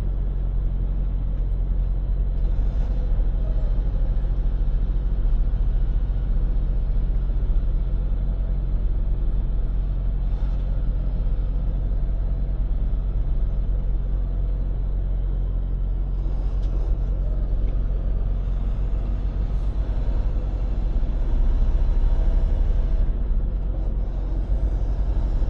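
Diesel engine of a Freightliner semi-truck running, heard from inside the cab as a steady low drone.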